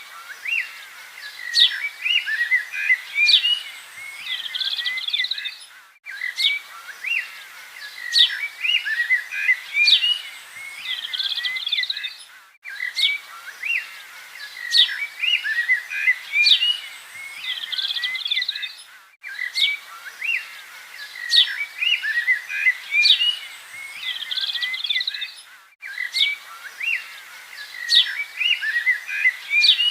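Several birds chirping and singing, with quick sweeping notes over a steady outdoor hiss. It is a short recording looped: the same stretch of song repeats about every six and a half seconds, with a brief drop-out at each seam.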